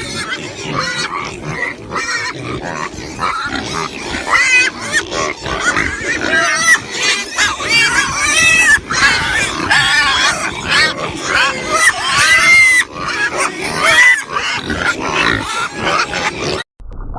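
A group of pigs calling over and over, many high calls overlapping, until the sound cuts off suddenly near the end.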